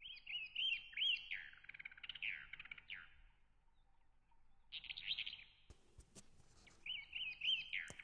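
A songbird singing in phrases of quick chirps and down-slurred whistled notes, with a pause of about a second and a half midway.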